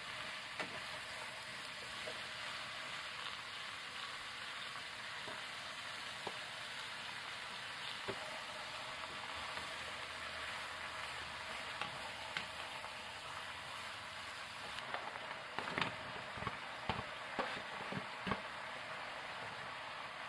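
Sliced pork, daikon and carrot sizzling as they are stir-fried in a large pot, with a wooden spatula scraping and knocking against the pot. The knocks come more often in the last few seconds.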